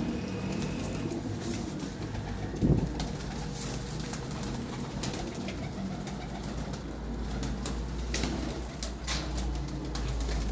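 Pigeons cooing in low, soft calls, with scattered sharp clicks and one loud thump about a quarter of the way in.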